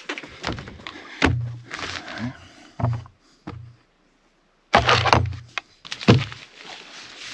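A string of irregular knocks and thuds with rustling between them, as objects are handled and set down. A second or so of dead silence falls about three and a half seconds in, then the thuds resume.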